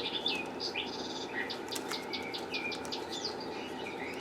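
A small bird chirping and chattering: a quick run of short chirps that slide up and down in pitch, over a steady low background hum.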